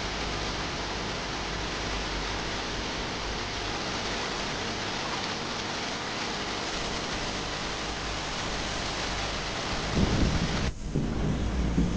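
A steady, even rushing noise, like rain or water spray. About ten seconds in, heavy low buffeting comes in, and the hiss cuts off suddenly soon after.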